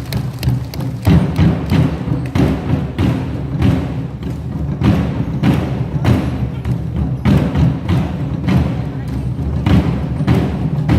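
A nanta troupe striking drums together in a steady beat over recorded backing music.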